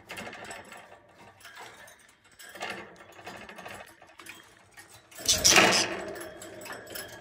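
Budgerigars chattering and warbling in fast, clicky bursts, with a louder, fuller burst of sound about five seconds in.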